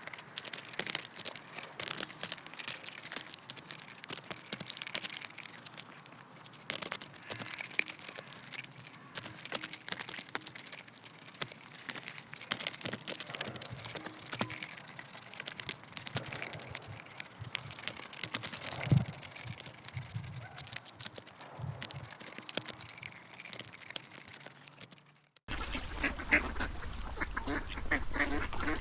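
Ducks calling, mixed with many sharp clicks and crackles. About 25 seconds in, the sound cuts to a louder run of rapid quacks over a low steady hum.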